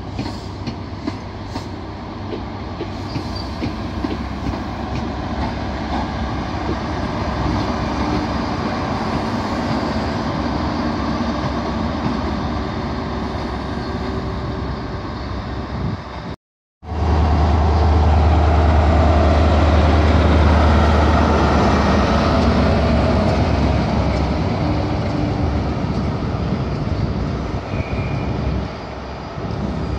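InterCity 125 high-speed train (Class 43 diesel power cars hauling coaches) running past along the platform with steady wheel and rail noise. After a short break about halfway through, a loud, steady low diesel engine note from a power car comes in, then fades back to coaches rolling by.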